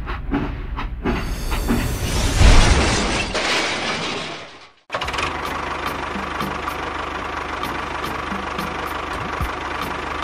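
A toy train crashing into rocks on its track and derailing: a loud, noisy crash that peaks about two and a half seconds in and fades out by about four and a half seconds. After a short break, a small engine runs steadily with a faint, regular ticking.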